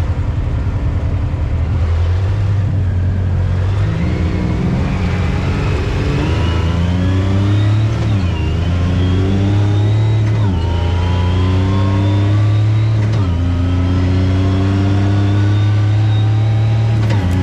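Off-road vehicle engine under way, its revs climbing steadily and dropping back sharply three times as it accelerates along the trail.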